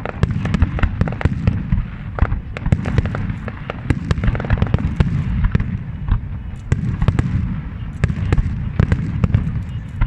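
Large fireworks display: a dense, rapid series of sharp cracks and bangs, several a second, over a continuous low booming rumble.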